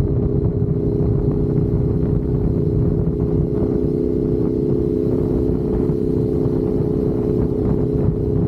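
Motorcycle engine running at a steady cruising speed: an even drone that holds one pitch throughout, over a constant low rumble.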